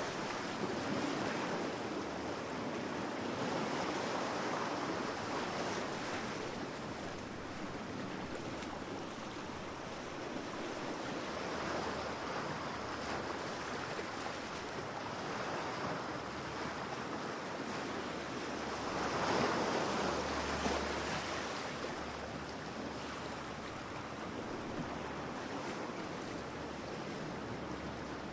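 Ocean waves breaking and washing on a beach, a steady surf rush that swells and eases every several seconds, with one larger wave about two-thirds of the way through.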